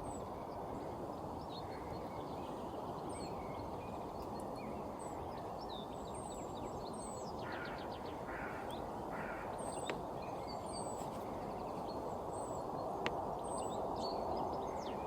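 Small birds calling with many short, high chirps, with a few brief buzzy calls in the middle, over a steady low background hiss.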